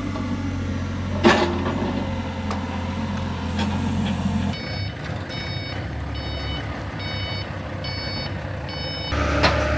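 Diesel engine of a piece of construction equipment running, with one sharp knock about a second in. From about halfway through, its backup alarm beeps at an even pace, roughly one and a half beeps a second, for about four and a half seconds as the machine reverses.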